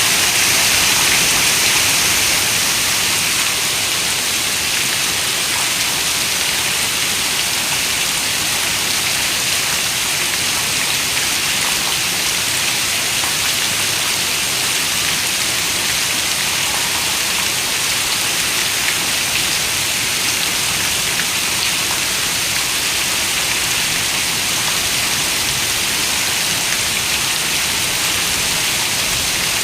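Heavy rain falling steadily on a window, a dense even hiss with fine scattered drop ticks, slightly heavier for the first couple of seconds.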